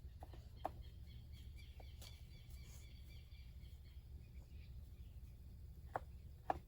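Faint bird calls over a steady low rumble, with a few sharp knocks near the start and again near the end.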